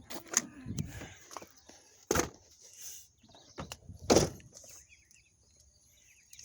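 Two sharp knocks or thumps about two seconds apart, with a few smaller clicks and taps between them.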